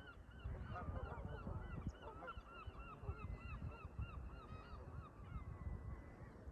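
Canada geese honking, a rapid run of repeated calls from several birds overlapping, thinning out near the end. Wind rumble underneath.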